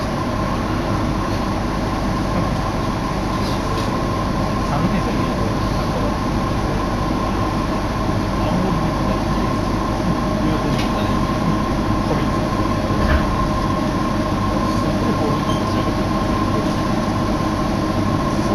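Steady hum and rumble inside the carriage of an electric train on the Iwate Galaxy Railway, with a steady mid-pitched tone running over it and a few faint clicks.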